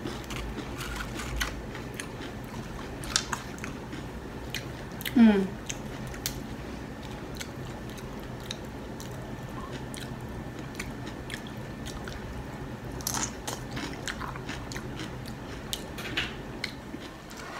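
Close-up chewing and crunching of tortilla chips loaded with wet toppings: irregular crisp crackles mixed with soft squishy mouth sounds. A brief falling hum about five seconds in is the loudest moment.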